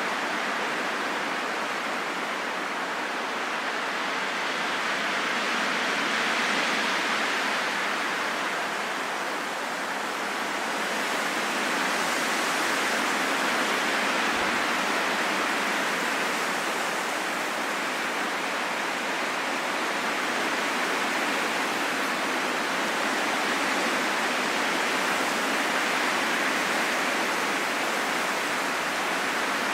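Steady wind, an even rushing hiss with no whistling tones, swelling and easing slowly every several seconds.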